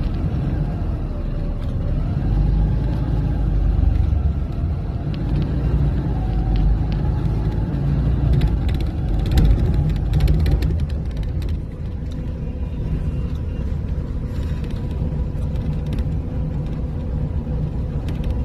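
Steady low rumble of a road vehicle in motion, with a wavering drone in the first half that eases off about twelve seconds in.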